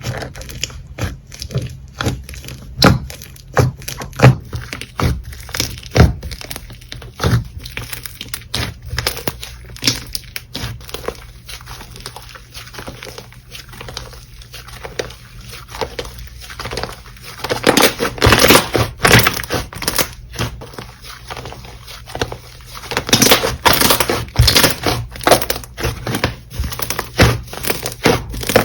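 Slime being squished and pressed by hand: many small clicks, pops and crackles. It gets busier and louder a little over halfway through and again near the end.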